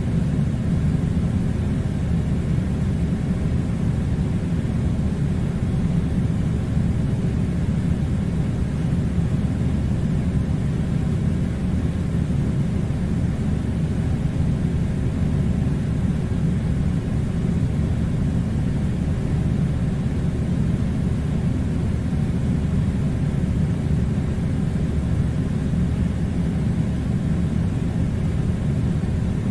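Air conditioner running with a steady low rumble and a faint hiss, unchanging throughout.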